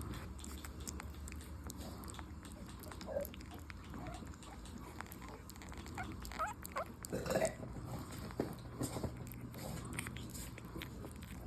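Pug puppies feeding: soft smacking and lapping clicks, broken by short high squeaks and whimpers. The loudest whimper comes about seven and a half seconds in.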